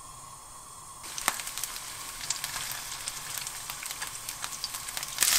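Garlic cloves and chunks of green onion sizzling and crackling in hot cooking oil in a frying pan. The sizzle starts about a second in and gets louder near the end.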